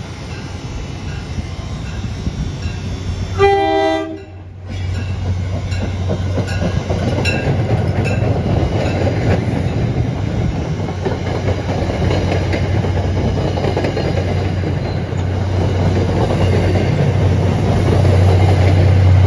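MBTA diesel push-pull commuter train passing at a station, cab car leading: one short horn blast about three and a half seconds in, then the coaches rolling by with clicking wheels and a steady rumble, and the pushing diesel locomotive's engine growing louder near the end as it draws close.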